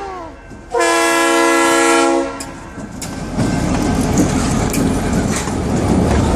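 Train horn sounds one steady chord-like blast of about a second and a half. A moment later the train's rumble and wheel clatter over the rails build and run on.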